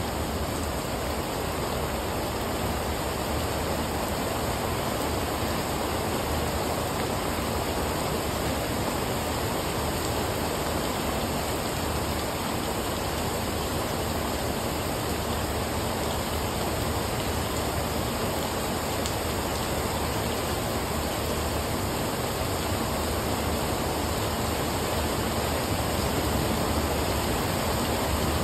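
Heavy rain pouring steadily onto a wet brick patio and palm foliage, an even hiss with no breaks.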